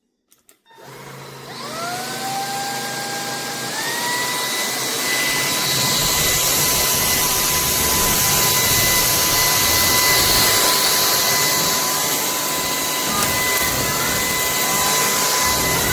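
SKIWEC cordless stick vacuum cleaner starting up: a couple of clicks, then the motor spins up with a rising whine. About four seconds in the whine steps up in pitch, and the vacuum then runs steady and loud with a strong rushing hiss of air.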